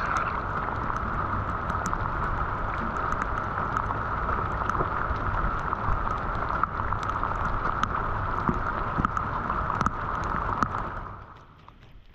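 Steady rush of water with scattered small splashes and drips, which drops away abruptly about eleven seconds in.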